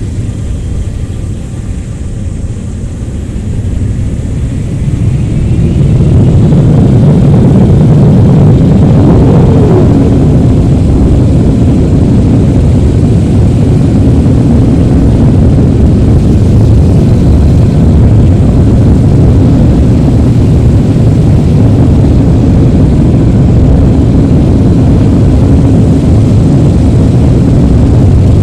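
Boeing 777-300ER's GE90 turbofans at takeoff thrust: a very loud, low rumble that swells over the first five or six seconds and then holds steady.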